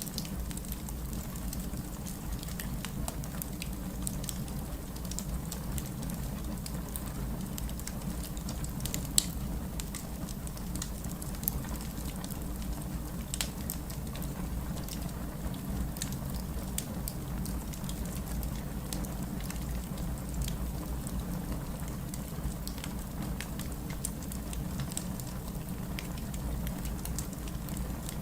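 Heavy rain falling steadily, with a wood fire crackling over it in scattered sharp pops; one louder pop comes about nine seconds in.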